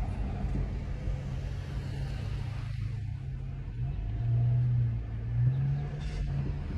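Car engine and road rumble heard from inside the cabin while driving, with the engine hum shifting up and down in pitch a few times.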